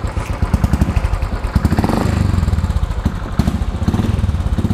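Royal Enfield Classic 500's single-cylinder engine running with an even thumping beat through its exhaust, the beat quickening and growing louder about a second and a half in as the throttle is opened.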